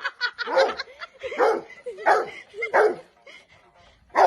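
Dog vocalizing in a string of short barks and whines with sliding pitch, about five in the first three seconds, then a loud bark near the end.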